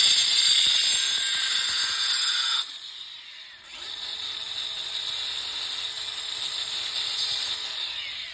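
Angle grinder with a diamond blade cutting a long metal screw shorter: a loud, harsh grinding that drops away a little under three seconds in, then starts again about a second later and runs until near the end.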